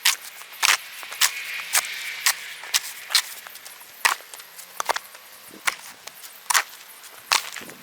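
Snow shovel scraping and striking a natural stone walk in short, sharp strokes, about a dozen at an irregular pace of a little over one a second.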